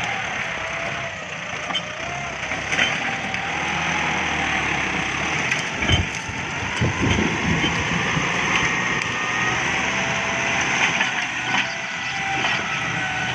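Kubota MU5702 tractor's diesel engine running under load with a wavering whine, with scattered sharp knocks and cracks, and a cluster of heavy thumps about six to seven seconds in.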